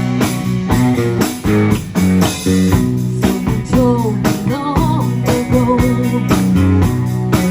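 A rock band playing a song: strummed guitar over bass and a steady drum beat, with a sliding melody line coming in on top about halfway through.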